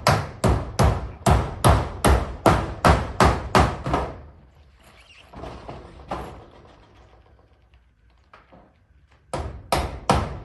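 Hammer driving nails into corrugated zinc roofing sheets: a quick run of strikes, about three a second. The strikes stop after about four seconds, a single knock follows, and the hammering starts again near the end.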